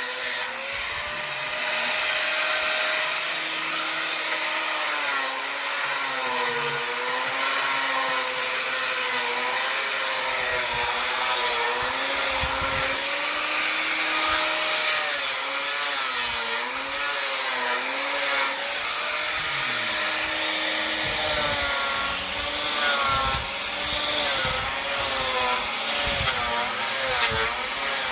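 Power sander grinding thick hard paint off curved wooden hanok rafters, running without a break, its motor pitch wavering up and down as it is pressed into the wood, over a steady abrasive hiss.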